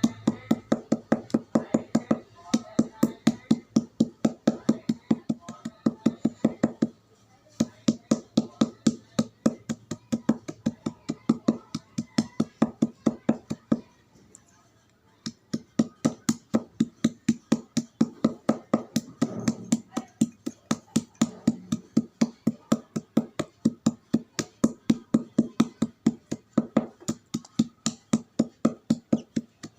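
Chalk crunching in a fast, even rhythm of about three to four sharp crunches a second, breaking off briefly twice, about a quarter and about halfway through.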